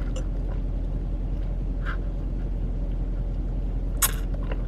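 Steady low rumble of a car's engine and cabin, heard from inside the car, with a brief sharp noise about four seconds in.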